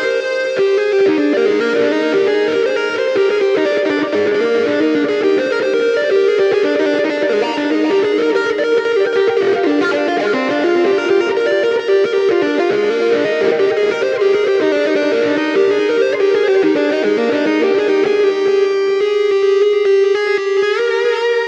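Electric guitar music: a continuous fast run of plucked notes, steady in loudness throughout.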